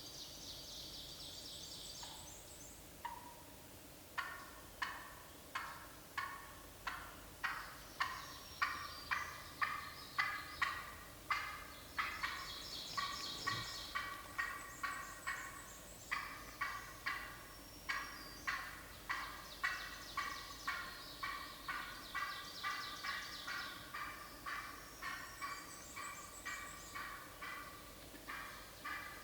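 Wild turkey yelps and cutts: a long run of sharp calls, about two a second, starting about four seconds in and going on throughout. A small songbird's high trills sound now and then over the top.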